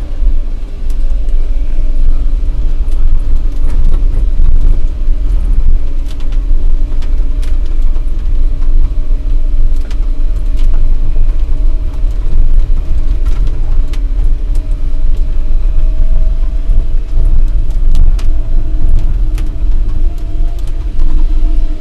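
Smith Cabac electric truck (ex-milk float) climbing a steep hill under a heavy load: a heavy low rumble of the drive and road with the traction motor's steady whine, which rises slightly in pitch in the second half, and occasional rattles.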